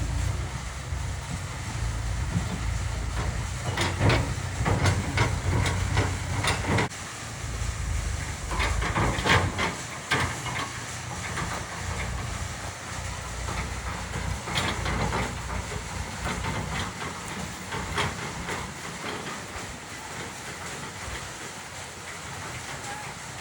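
JCB 3DX backhoe loader at work: its diesel engine running with repeated sharp knocks and clanks of rock and metal as it loads rock into a tractor trolley. The engine's low rumble drops away about two-thirds of the way through.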